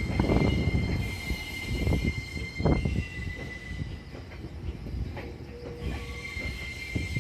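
A JR East train's wheels squealing as it rolls into a rail depot, a steady high-pitched squeal over a low rumble with repeated knocks from the wheels crossing rail joints and points.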